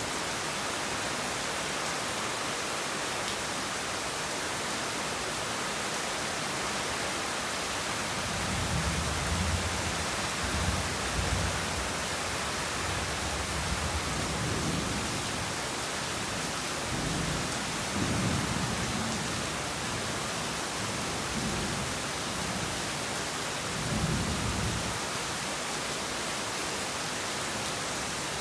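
Heavy rain falling with a steady hiss, and low rumbles of thunder rolling in several times: a longer roll from about eight to twelve seconds in, shorter ones a little later, and one more near the end.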